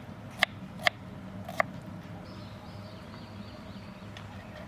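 Drinking cups tapped together in a toast: four light clinks with a short ring, about half a second apart, in the first second and a half. A faint run of short high chirps follows.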